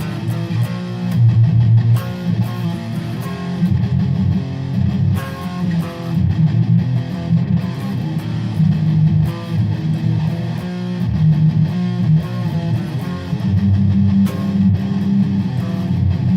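Electric guitar tuned to Drop C# playing a low, fast-picked riff of power chords and low-string notes with slides, played through twice.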